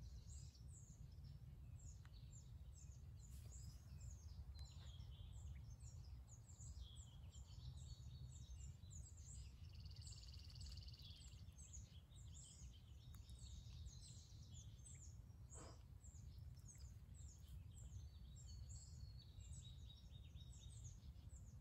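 Faint birds chirping: many short falling chirps repeated throughout, with a brief trill about ten seconds in, over a low steady rumble of background noise.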